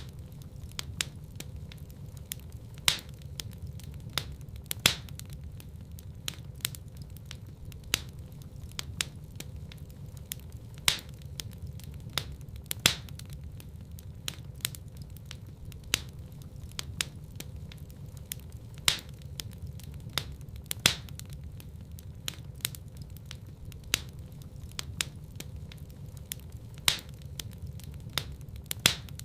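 Wood fire in a fireplace crackling: sharp pops every second or so, the loudest every two to three seconds, over a steady low rumble.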